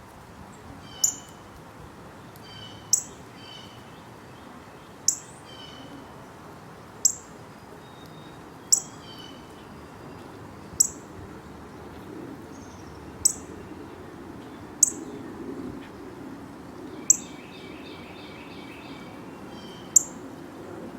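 A small animal gives a sharp, high chip call over and over, about every two seconds, ten times. Softer bird chirps come in between, and a short run of quick notes sounds near the end.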